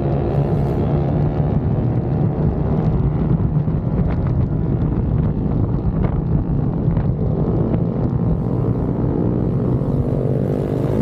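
Dirt bike engines running with a steady, low drone that holds its pitch, wavering slightly near the end.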